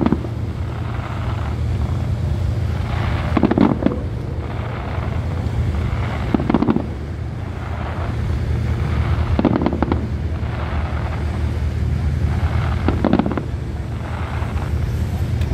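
Distant fireworks booming four times, about three seconds apart, over the steady low drone of a river cruise boat's engine.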